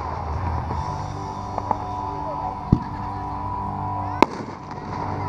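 Consumer fireworks cake firing: a few scattered sharp pops, the loudest about four seconds in, over a steady background hum.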